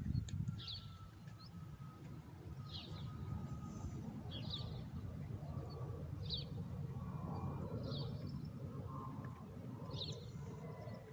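A transport aircraft's engines are heard throttled back on its landing approach: a faint low rumble with a thin whine that grows a little louder in the middle. A small bird chirps briefly about every second and a half.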